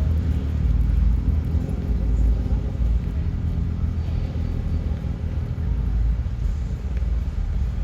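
Norfolk Southern freight train passing with a steady low rumble.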